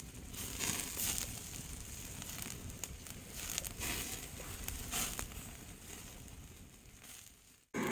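Wood fire crackling in a fire pit, with scattered sharp pops over a low hiss; it cuts off suddenly near the end.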